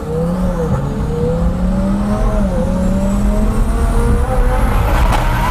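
Twin-turbo Lamborghini engine at full throttle in a hard pull, its pitch climbing through the gears with brief dips at the upshifts about half a second and two and a half seconds in. A faint high whine rises alongside it.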